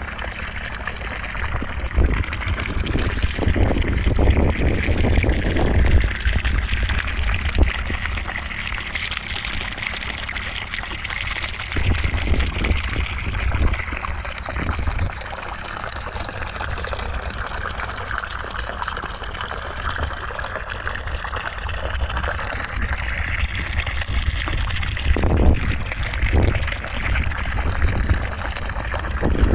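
Steady, even rushing noise of gushing water, like a running tap or shower, with a low rumble that rises and falls, used as white noise.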